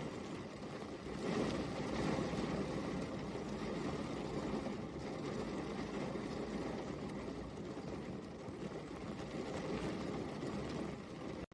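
Steady rain, an even wash of noise that grows a little louder about a second in.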